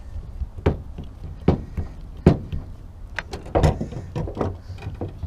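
Tools and metal parts being handled: about eight irregular sharp clicks and knocks, coming closer together in the second half.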